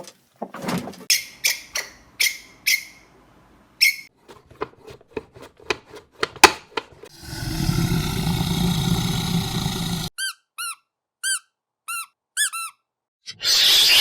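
A run of different animal sounds: squeaky calls and sharp clicks for the first half, then a rough, noisy call lasting about three seconds, then about six short arched chirps, then loud harsh calls starting near the end.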